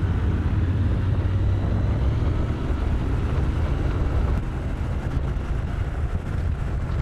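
Triumph Scrambler 1200's 1200 cc parallel-twin engine running as the motorcycle rides along, a steady low drone mixed with road noise.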